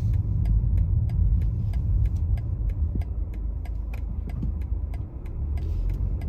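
BMW 320d xDrive on the move: its four-cylinder diesel and road noise make a steady low rumble, easing briefly about five seconds in. A light, regular ticking runs through it, about four to five ticks a second.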